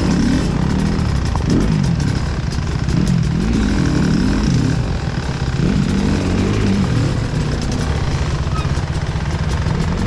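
Off-road enduro motorcycle engine revving up and down over and over as the throttle is worked.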